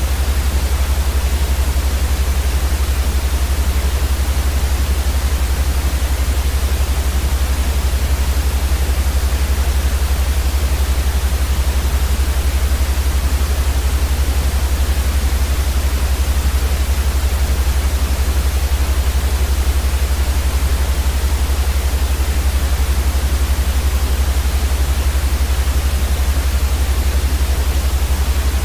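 Steady, unchanging white noise with a strong low rumble underneath.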